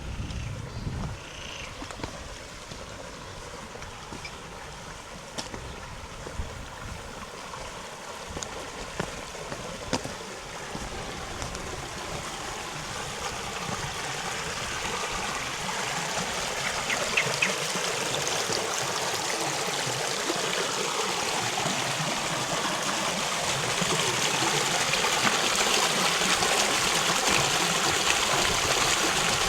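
River water running over stones in a steady rush, growing steadily louder.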